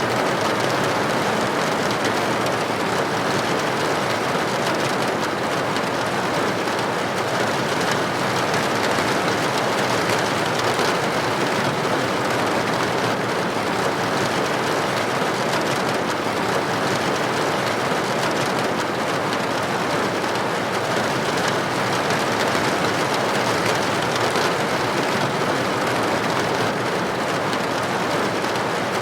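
Steady rain, droplets hitting a building window: an even hiss with faint scattered ticks that holds level throughout.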